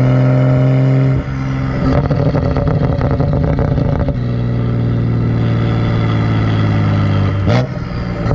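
BMW 135i's turbocharged N55 straight-six, run catless with the muffler deleted, giving a loud steady exhaust note. The note breaks off about a second in and again about four seconds in, then slowly drops in pitch, with a sharp crack near the end.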